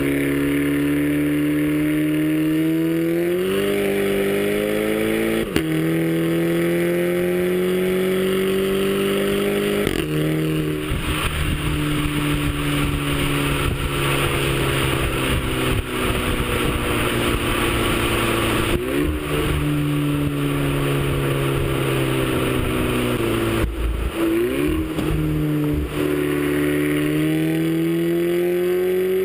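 Audi A3 TSI's turbocharged four-cylinder, fitted with an APR K04 turbo upgrade, running under way. Its note climbs steadily, then breaks and drops sharply several times, as at gear changes, with a rougher, noisier stretch in the middle.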